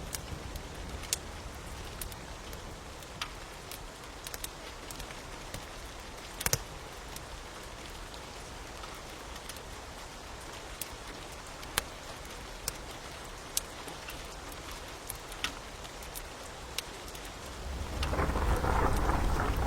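Steady rain hissing, with the sharp pops and crackles of a fire scattered irregularly through it. About 18 s in, a low rumble and a heavier rush of rain swell in and get louder.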